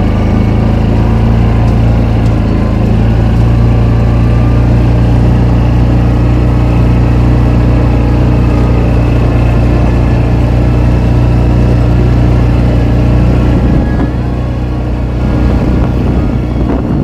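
A vehicle engine running steadily with a constant low hum, easing off a little near the end.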